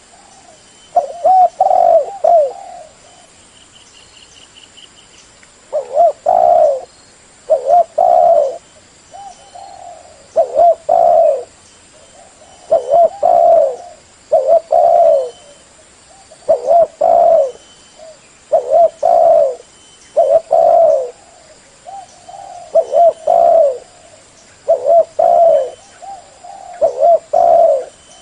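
Spotted dove cooing over and over: loud, low, multi-note coo phrases about every two seconds, after a pause of a few seconds near the start.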